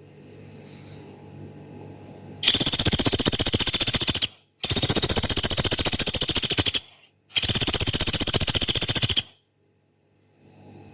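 A pelatuk beras (pygmy woodpecker) calling three long, rapid rattling trills in a row, each about two seconds, with brief pauses between them.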